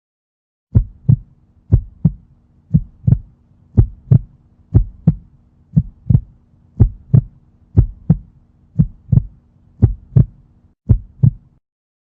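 Heartbeat sound effect: paired lub-dub thumps at a steady pace of about one beat a second, eleven beats in all, over a faint low hum. It starts just under a second in and stops shortly before the end.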